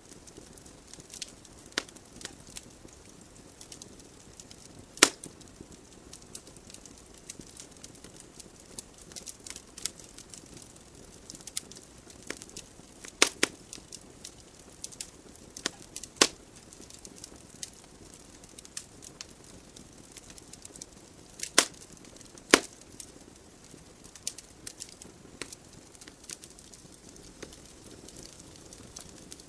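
Wood fire burning in a fireplace: a soft steady hiss of flames with constant light crackling from the logs, broken by several loud sharp pops, two of them close together near the end.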